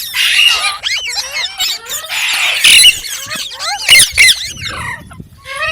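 Green parrot chirping and squawking: a quick run of chirps that glide up and down in pitch, broken by harsher screeches, the loudest a little past halfway.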